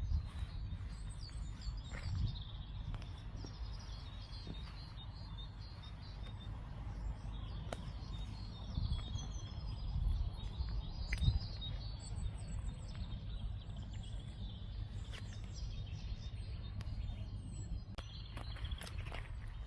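Small birds chirping and singing, with many short, high calls scattered throughout, over a steady low rumble.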